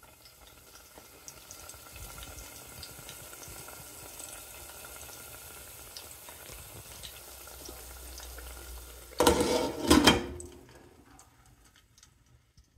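Eggplant slices frying in oil in a stainless steel pot: a steady sizzle with small crackles. About nine seconds in comes a loud metallic clatter as the pot's lid goes on, and after it the sizzle is much fainter.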